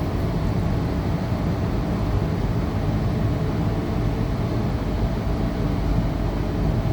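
Interior running noise of a Tangara electric multiple unit train under way: a steady rumble of wheels on rail and motor noise, even throughout.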